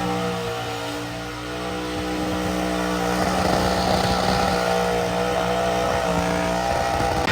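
Truck engine running at a steady, held speed, with a slight dip about a second in.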